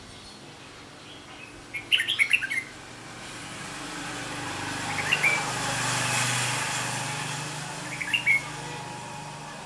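Red-whiskered bulbul calling in short chirpy notes: a quick run of calls about two seconds in, then single calls near the middle and near the end. A passing vehicle's noise swells and fades in the background through the middle.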